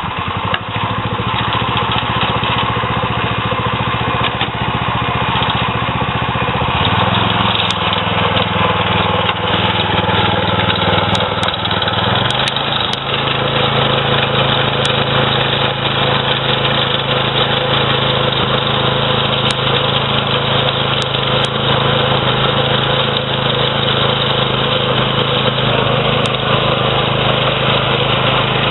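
Kohler 6.5 hp single-cylinder engine of a self-propelled sod cutter running steadily while it cuts turf. Its pitch steps up about seven seconds in and again around twelve seconds as it is throttled up, then holds.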